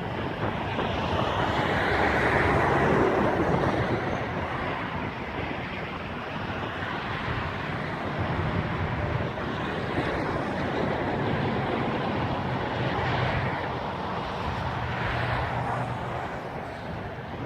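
Combine harvesters running steadily in a wheat field, a low engine drone under a wide rush of machine noise that swells about two to three seconds in.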